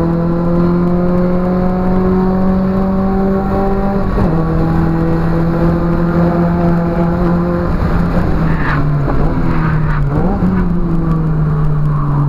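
Turbocharged CA18DET four-cylinder of a Nissan 200SX S13 with a 3-inch exhaust, heard from inside the cabin, pulling hard with its pitch slowly rising. The pitch drops sharply at an upshift about four seconds in. Around eight to ten seconds in it goes rough and uneven off the throttle, then the revs jump back up on a downshift before it pulls again.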